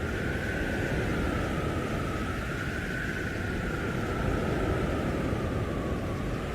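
Blizzard wind howling: a steady rush of storm wind with a whistling tone that slowly wavers up and down in pitch.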